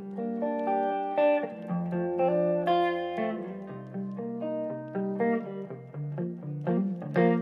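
Instrumental guitar passage: single plucked notes picked out in a melodic line, with no singing.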